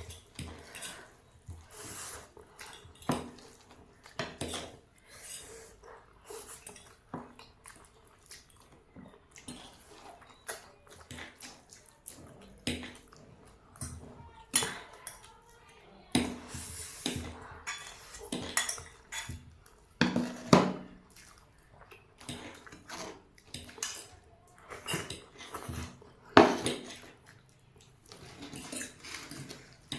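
Utensils clinking and scraping against a bowl as instant noodles are eaten, in irregular short knocks with eating sounds between; the loudest clinks come about twenty and twenty-six seconds in.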